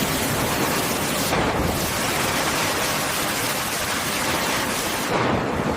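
Steady loud rushing, hissing noise with no clear tone, thinning briefly in its highest part twice.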